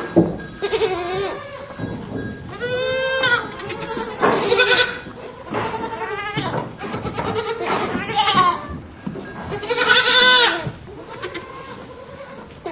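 Farm animals bleating, about seven wavering, quavering calls one after another, the longest and loudest around ten seconds in.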